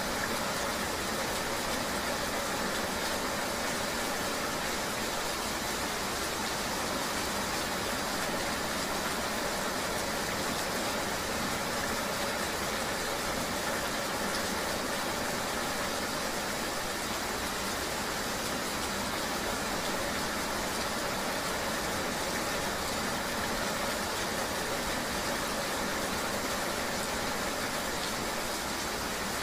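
Steady ambience of a motor vehicle running in the rain: an even hiss of rain and wet road noise over a low, constant engine hum, with no distinct events.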